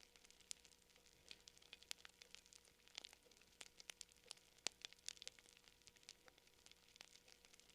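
Campfire crackling: faint, irregular sharp pops and snaps, several a second, with one louder snap about halfway through.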